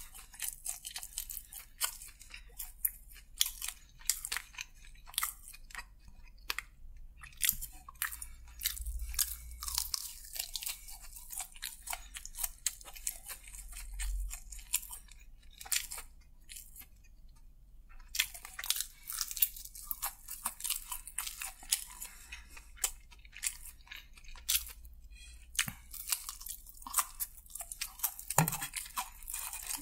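Close-miked crunching and chewing of crispy fried chicken, a dense run of sharp, crisp crunches with a short pause a little past halfway.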